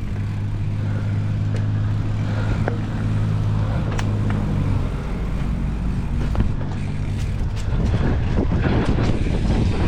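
A steady low motor drone that fades away about six seconds in, followed by rising wind noise on the microphone.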